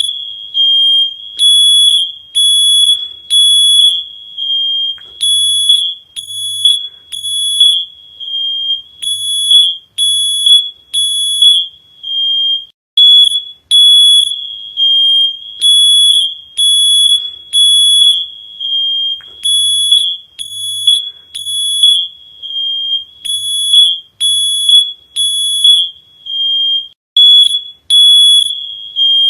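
Smoke alarm beeping shrilly in repeated groups of three beeps, a new group about every four seconds: the three-beep fire-evacuation pattern.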